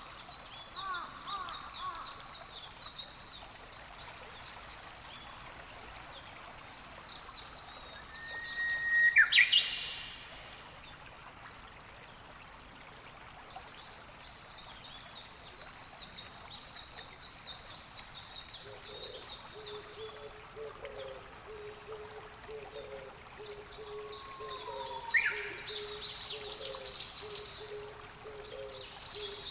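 Wild birds singing on the shore: bouts of fast, high chirping song that come and go, with a louder, sharp call about nine seconds in and another near 25 s. A faint low repeated note joins in the last third, over a steady noise bed.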